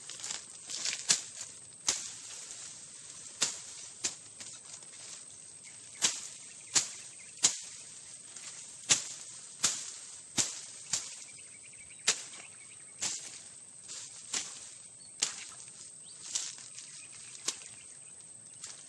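Sharp ticks or snaps at uneven intervals, roughly one a second, over a steady high-pitched insect drone.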